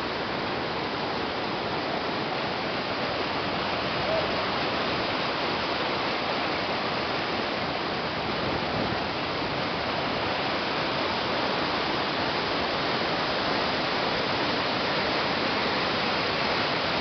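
Small waterfall's water rushing steadily, an even hiss with no change.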